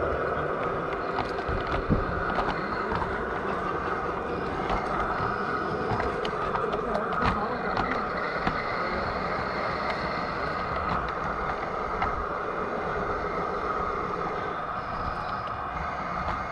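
G scale model train running on a garden railway: a steady whine of several tones, with scattered sharp clicks.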